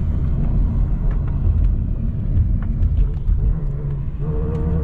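A car driving, a steady low rumble of engine and road, with a steadier engine note coming in about four seconds in.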